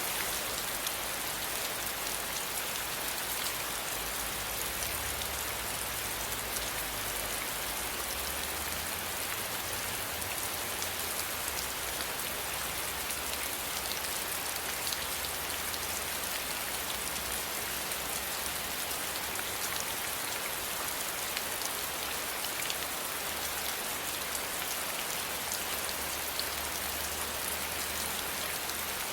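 Steady rain falling, a constant hiss with many small drop ticks throughout, and a faint low rumble underneath.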